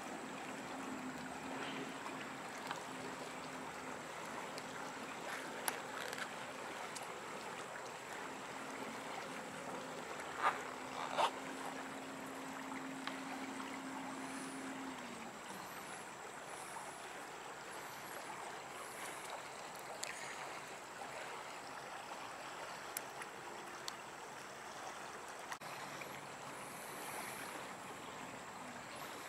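Freight cars rolling slowly: a steady rushing of wheels on rail with a few short, sharp clanks, the loudest two about ten and eleven seconds in. A steady low hum runs underneath and stops about halfway through.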